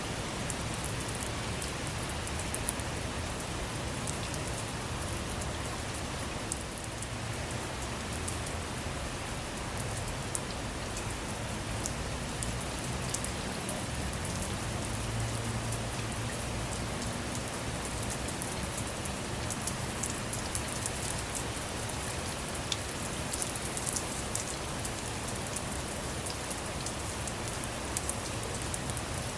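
Steady rain, with many individual drops tapping sharply over the even hiss.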